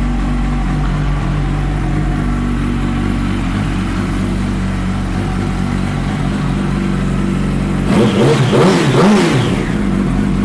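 2007 Yamaha YZF-R1's inline-four engine idling steadily through GYTR twin exhaust pipes, then revved up and down a few times near the end.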